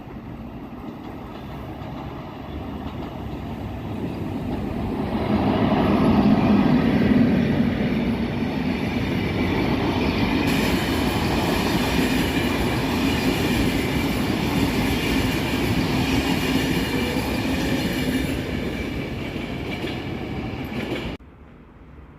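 Train passing close by: its rumble and wheel-on-rail noise build over the first five or six seconds, then run loud and steady with a low hum and a higher ringing whine. The sound cuts off suddenly about 21 seconds in.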